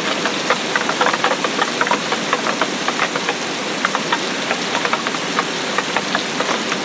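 Steady rain, with many close drops striking a surface as a dense, irregular stream of small ticks over an even hiss.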